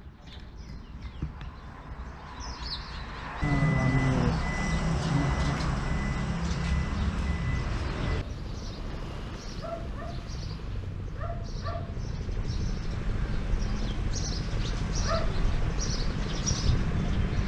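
Outdoor ambience: small birds chirping over and over above a steady low rumble. A thin steady high tone sounds from about three to eight seconds in.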